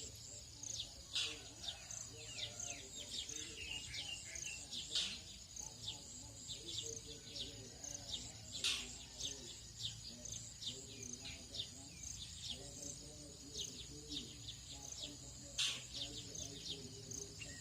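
Tropical dawn chorus: many birds chirping and calling, a few calls sharper and louder, over a steady high-pitched insect drone. Faint low chanting of Buddhist monks runs underneath.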